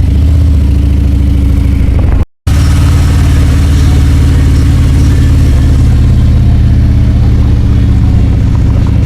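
Motorcycle engine running steadily at low speed while riding, loud and even, with a brief cut to silence about two seconds in.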